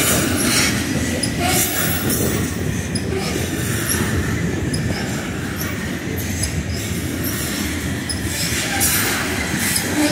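Covered hopper cars of a long freight grain train rolling past: a steady rumble and rattle of steel wheels on rail, with irregular sharp clacks.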